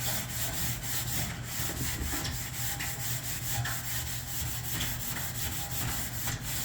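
Red Scotch-Brite abrasive pad scrubbed by hand in quick back-and-forth strokes over an aluminum headache rack tube, a steady scratchy rubbing as it scuffs out surface scratches.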